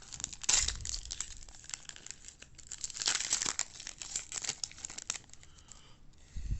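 Foil wrapper of a baseball card pack being torn open and crinkled by hand, loudest about half a second in and again around three seconds in, then easing off. A short low thump near the end.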